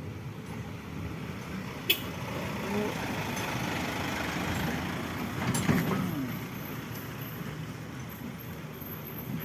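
Heavy sand truck's engine running under load on a steep climb, growing louder through the middle and easing off near the end, with a single sharp click about two seconds in.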